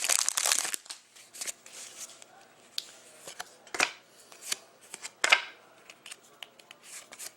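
Trading cards and foil pack wrappers being handled: a burst of wrapper crinkling in the first second, then scattered light rustles and sharp card clicks and slides.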